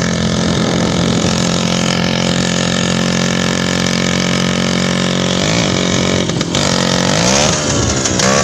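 Sidecar motorcycle engine running steadily, then revved up and down a few times from about five seconds in.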